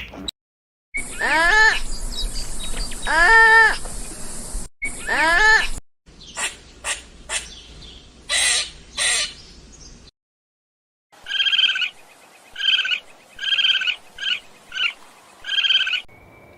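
Animal calls from several clips cut together: two long pitched calls that bend in pitch, then a run of short sharp calls, then six short pitched calls in quick succession near the end.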